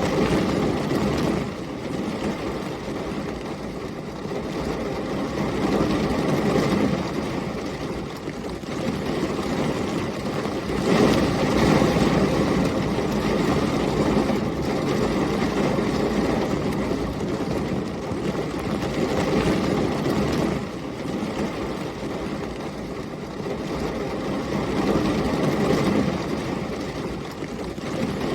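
Heavy rain pouring with gusting storm wind, a dense rushing noise that swells and eases every several seconds.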